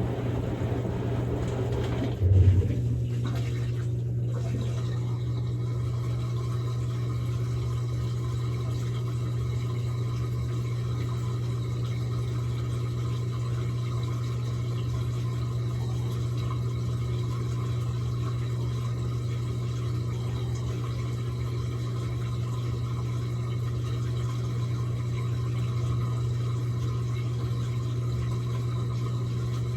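Samsung Grande washing machine running a quick-wash cycle. Water rushing in stops about two seconds in with a brief low thump, then the machine runs on with a steady low hum.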